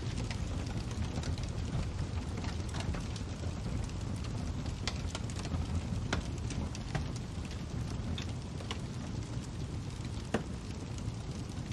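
Fire crackling: a steady low rumble with many scattered sharp pops, one louder pop near the end.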